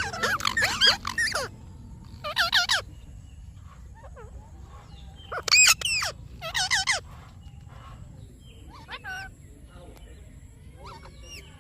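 Parrot chirping and chattering in short bursts of wavering, squeaky calls, louder in the first seven seconds and fainter towards the end.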